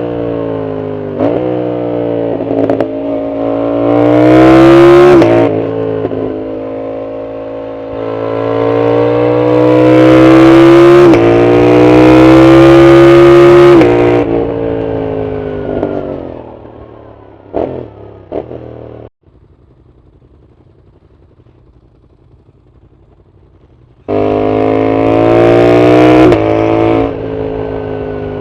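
Yamaha MT-07's CP2 parallel-twin engine with a full aftermarket exhaust, accelerating hard through the gears: the pitch climbs and snaps down at each quick upshift. It then falls off on a closed throttle with a few crackles from the exhaust, and the sound drops suddenly to a faint hum for about five seconds before the engine comes back in, loud and revving up again.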